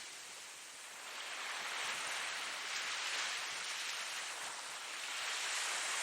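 Ocean surf: waves washing ashore in a steady hiss that swells after about a second, eases a little, then builds again near the end as the next wave comes in.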